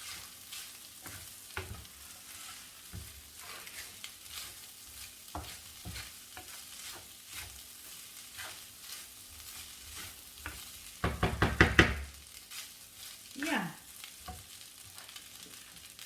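Boiled rice frying in a pan of sauce, sizzling as it is stirred, with scattered scraping strokes. About eleven seconds in comes a quick run of loud strokes lasting about a second.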